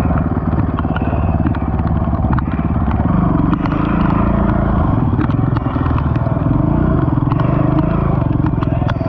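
ATV engine running under way on a trail, its pitch rising and falling with the throttle, with many sharp clicks and clatter over it.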